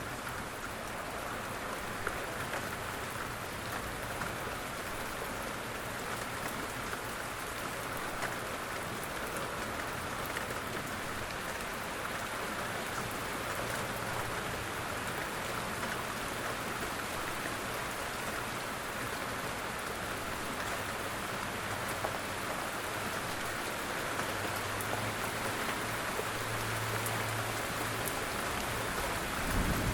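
Steady rain falling, with scattered drop taps; a faint low hum comes and goes at times, and a soft low thump sounds right at the end.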